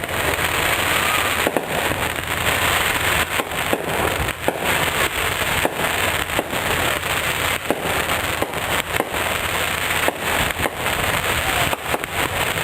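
Fireworks going off in a continuous barrage of rapid, overlapping bangs and reports.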